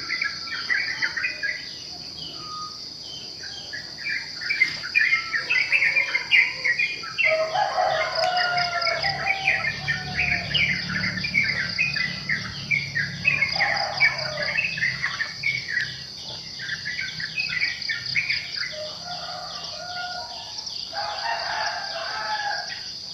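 Many birds chirping and singing in quick, overlapping calls over a steady high insect drone.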